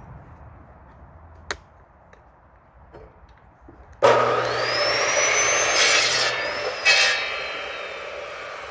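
An electric saw starts up about four seconds in, its motor whine rising as it spins up, and cuts into firewood with two louder rasping bursts. The whine then eases and falls as the saw slows. Before it starts there is only low background noise and a single sharp click.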